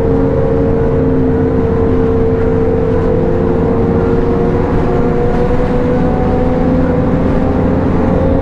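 A motorcycle engine running at a steady cruising speed while riding, with a steady whine that sags slowly and picks up a little near the end, over a low rumble and rushing noise.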